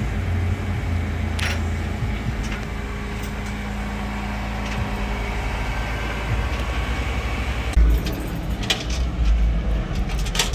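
A motor vehicle's engine running with a steady low rumble, with a few sharp clicks and, near the end, louder low surges and knocks as it moves off.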